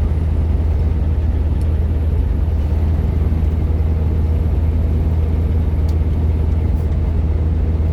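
Steady low engine and road drone heard from inside a moving vehicle's cabin, with a few faint ticks.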